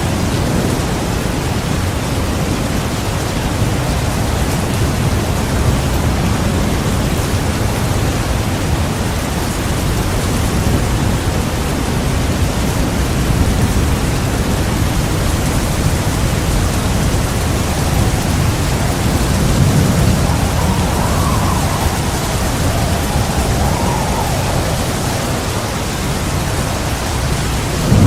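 Heavy rain pouring steadily, with low rolling thunder that swells and fades, strongest about two-thirds of the way through and again right at the end.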